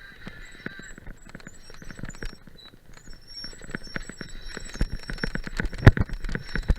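Mountain bike jolting over a rough trail: irregular clicks and knocks that come thicker after about four seconds, with one heavy thump near the end.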